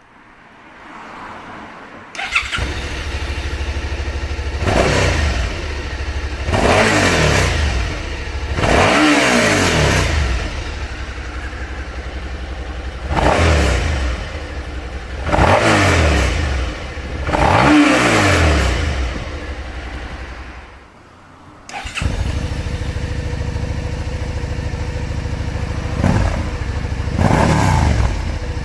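Suzuki SV650 ABS V-twin exhaust: the engine starts, idles and is revved six times, each rev rising and falling back to idle. About 21 seconds in the sound drops away, then a second run starts abruptly and idles steadily with two short throttle blips near the end, as the stock and Yoshimura Slip-On Alpha Cyclone mufflers are compared.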